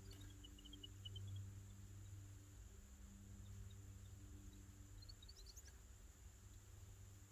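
Faint small-bird chirps. A short run of notes falls in pitch over the first second or so, and a quick run of rising notes comes about five seconds in, over a faint steady low hum.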